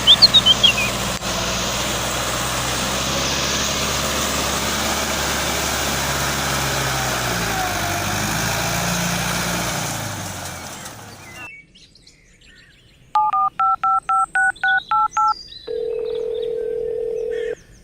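A steady mechanical running noise with a low hum fades out about ten seconds in. After a short pause comes a phone keypad dialling: about ten quick two-tone key beeps. A steady single tone follows for about two seconds.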